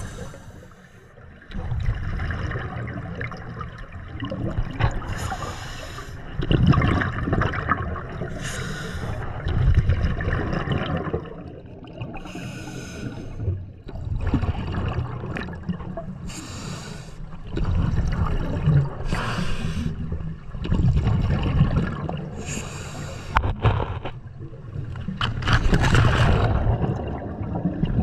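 Scuba diver breathing through a regulator underwater: a hiss on each breath in and a gurgling rush of exhaust bubbles on each breath out, repeating every few seconds.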